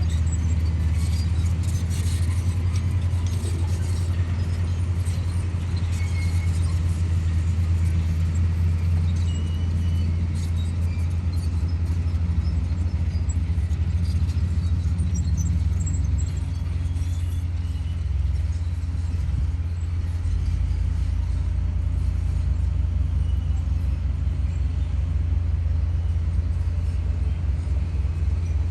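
Komatsu D58E bulldozer's diesel engine running steadily under load as it cuts and pushes soil, a deep continuous drone. Short high squeaks and clinks come and go, mostly in the first half.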